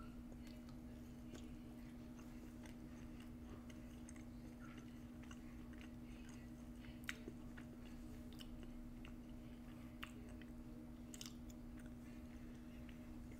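Faint close-miked chewing of a mouthful of Brussels sprout, with small wet mouth clicks and a few sharper clicks, over a steady low hum.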